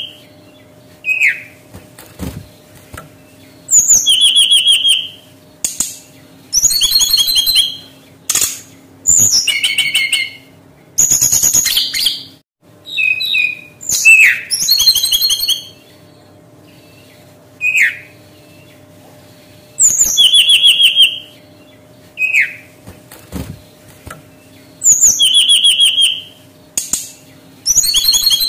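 Brown-chested jungle flycatcher singing: phrases about a second long of fast, clear repeated notes, alternating with single short down-slurred whistles, with a pause of a second or two between each. A faint steady hum runs underneath.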